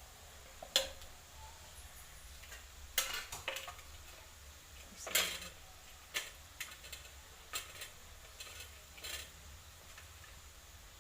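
A spoon stirring spices and meat in a cooking pan, with irregular scrapes and clinks of the spoon against the pan.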